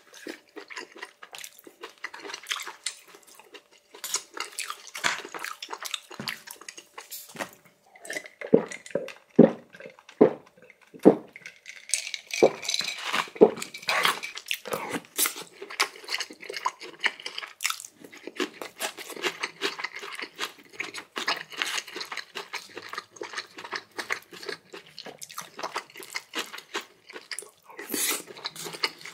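A person eating close to the microphone: wet chewing and biting with many small clicks and crackles, and a run of louder knocks about eight to eleven seconds in.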